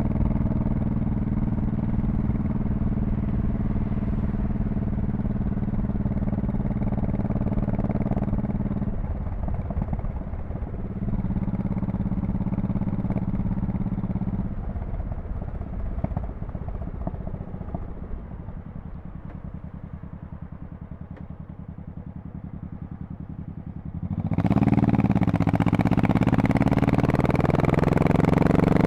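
Honda Shadow Spirit VT1100C's V-twin engine and exhaust, running steadily at cruising revs, then easing off and running lower and quieter for several seconds. About 24 s in it gets suddenly louder, with the pitch rising as the bike accelerates.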